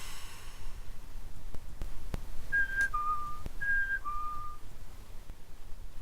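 Mouth-made whistle of two alternating notes, high then low, sounded twice, as part of a mouth-only imitation of a Keikyu N1000 train. It is preceded by a short hiss at the start and a few faint mouth clicks.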